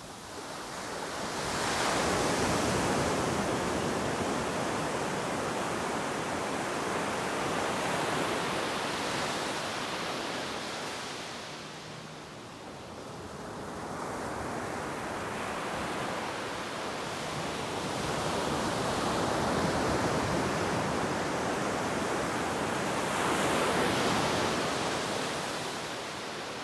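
Ocean surf breaking and washing up the shore, rising and falling in slow surges, with a lull about halfway through.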